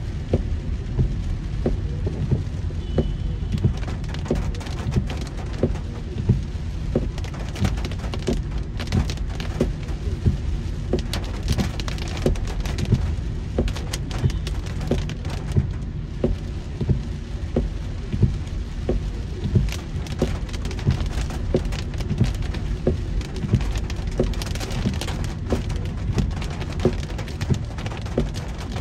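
Heavy rain falling on a moving car: many sharp drop hits over a steady low rumble of the car and road.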